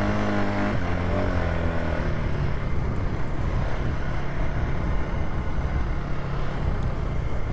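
Polaris ATV engine running as it is driven slowly along a rough dirt trail; its pitch drops about a second in, then it settles into a steady rumble.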